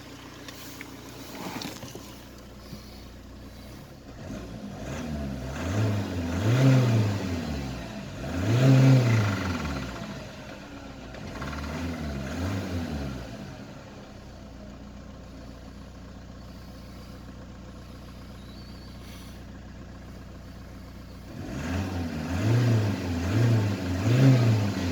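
Mercedes-Benz B180 (W245) engine idling, then revved three times with rising and falling pitch, settling back to idle, and near the end blipped three times in quick succession. This is an engine whose owner reports a rattle ('klappert') and is asking what causes it.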